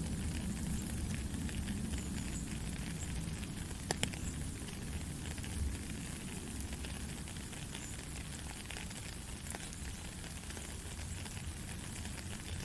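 Heavy rain falling steadily, a dense hiss with scattered close drops ticking sharply, over a low steady rumble.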